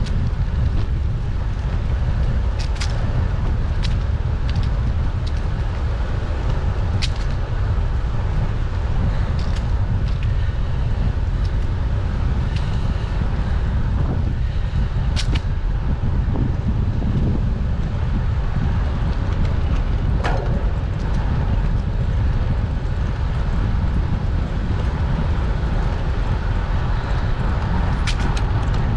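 Steady low wind rumble on the microphone of a moving bicycle, with a handful of brief sharp clicks and rattles scattered through.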